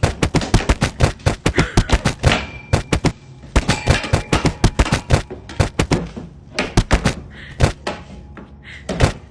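A rapid, uneven series of sharp knocks and thuds, several a second, thinning out in the second half.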